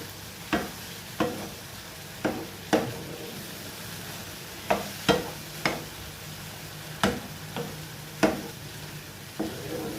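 Mushrooms frying in oil in a pan with a steady sizzle, while a utensil knocks and scrapes against the pan about eleven times at irregular intervals as they are stirred.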